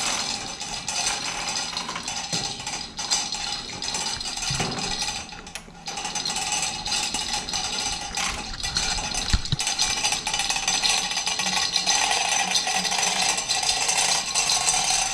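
ATV lift being lowered, with continuous mechanical rattling and clicking over a steady whine, and a single thump a little past nine seconds.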